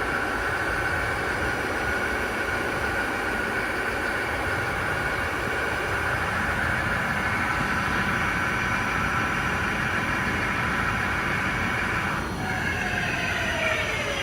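Hwacheon T130 lathe running with a steady high whine. About twelve seconds in the whine breaks off and falls in pitch as the spindle slows down.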